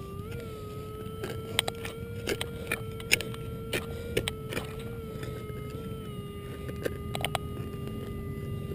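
Minelab E-Trac metal detector sounding a steady hum-like tone whose pitch rises slightly about half a second in and settles back near the end, with scattered sharp clicks of rocks and handling.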